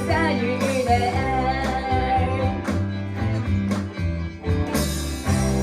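Closing bars of a rock song played by a band: guitar and drums, with a long held note over the first two to three seconds and several sharp drum strikes after it.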